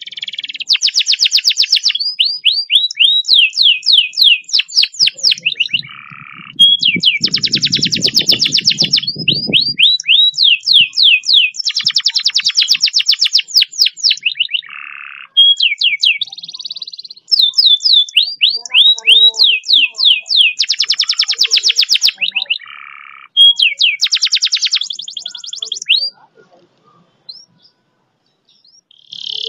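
Domestic canary singing long, fast rolls: rapid strings of high repeated notes and quick downward-sweeping notes in long runs broken by short pauses, falling quiet near the end.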